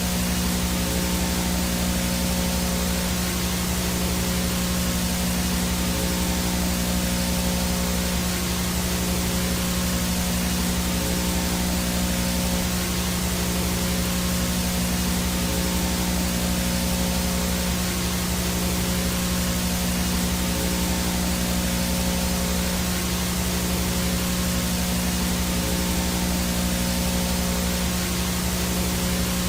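Analog VHS static: a steady, unchanging hiss of snow noise with a strong low electrical buzz and a thin high-pitched whine over it.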